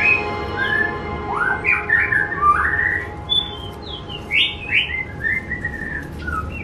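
Birds chirping and whistling, a quick run of short rising and falling calls over faint, steady background music with no beat.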